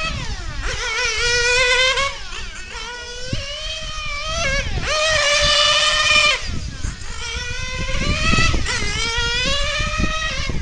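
Novarossi 9-port nitro engine of a 1/8 scale Mugen MRX6 on-road RC car revving high, its whine climbing in pitch under throttle and dropping off several times as it laps the track.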